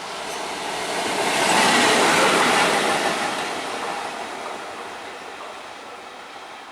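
A train passing at speed on the track: a rushing rumble of wheels on rails that swells to its loudest about two seconds in, then fades away.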